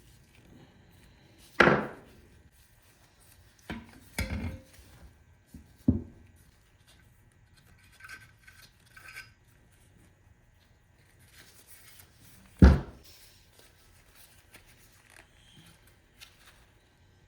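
Parts of an old hand plane being handled on a workbench: a few separate knocks and clunks, the loudest about two seconds in and again near thirteen seconds in, with light rubbing and small clinks between.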